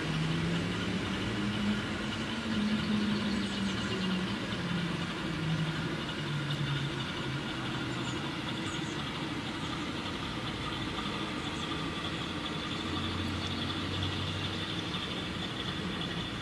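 A radio-controlled model boat's motor running. Its low pitch rises and falls over the first several seconds as the throttle changes, then settles, with a steady high whine throughout.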